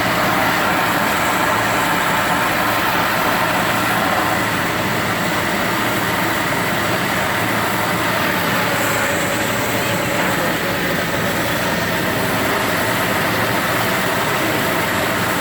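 A heavy diesel engine running steadily, with no crashes or impacts.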